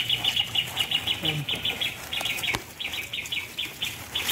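A small songbird chirping in a rapid, steady series, several sharp notes a second with short breaks: the parent bird scolding in alarm at the disturbed nest. One click about two and a half seconds in.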